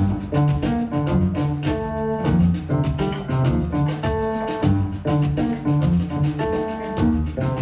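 Instrumental jazz: chords and melody over a double bass line, with drum kit cymbals keeping time.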